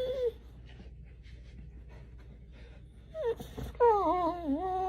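A dog whining: a short whine at the very start, then a long, wavering, drawn-out whine from about four seconds in.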